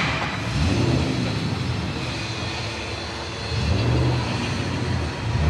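A motor vehicle's engine running with a low rumble that swells about half a second in and again from about three and a half seconds.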